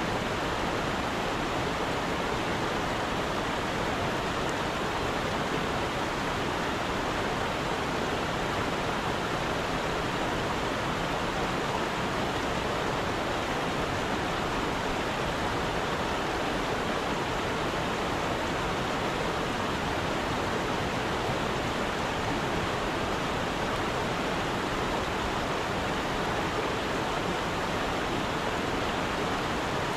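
Stream water rushing past at a constant level, an even rush with no breaks.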